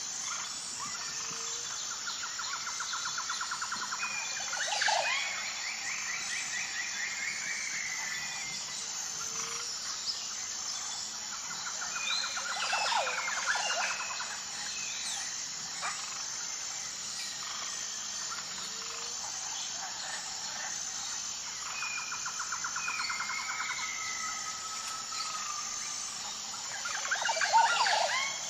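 Songbird singing the same phrase over and over, about every nine seconds: a fast trill, then slurred falling whistles and a sharp call. Behind it, a steady high insect chorus.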